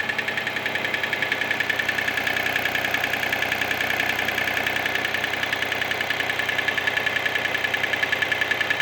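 Mitsubishi Space Star engine idling with a fast, even rattle, which the owner takes for piston slap.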